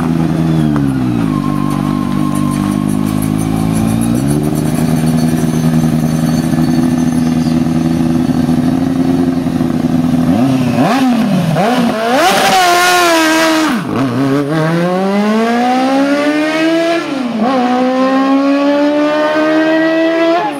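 Modified ZAZ Zaporozhets engine at high revs as the car spins its rear wheels, with the pitch sagging and recovering early on. Midway comes a hissing burst of wheelspin, then the engine revs up twice as the car accelerates away, its pitch dropping at a gear change in between.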